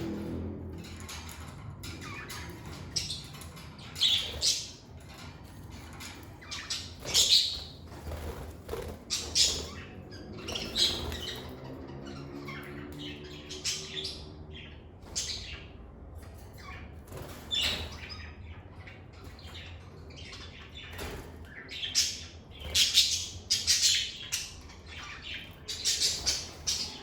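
Lovebirds chirping and squawking in short, sharp calls that come in scattered clusters, with a steady low hum underneath.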